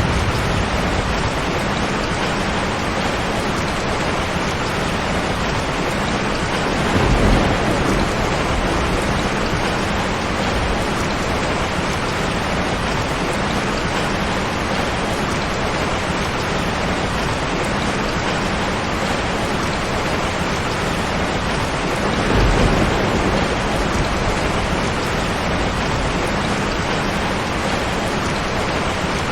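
Steady heavy rain from a rainstorm, a dense even hiss, with two short low rumbles, one about a quarter of the way in and another about three-quarters through.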